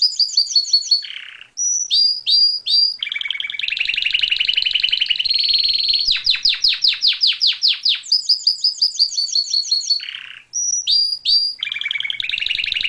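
Small songbird singing a long, loud song of rapid trills: runs of quickly repeated notes, a few separate chirps, then a new trill on a different pitch. There is a short break about a second and a half in and another about ten seconds in, after which the same sequence of phrases starts again.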